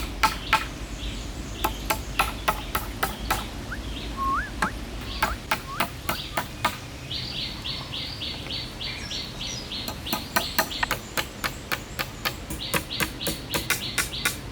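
Birds calling: a short rising whistle, then rapid trilled runs of chirps in the middle and again near the end. Throughout there are repeated sharp knocks, several a second in bunches.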